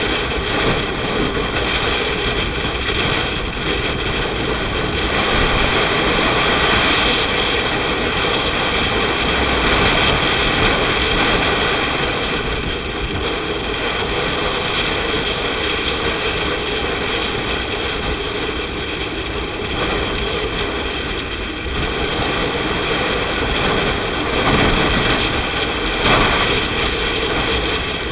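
Motorcycle on the move: steady wind rush on the microphone over the engine and tyre noise, swelling and easing slightly with speed.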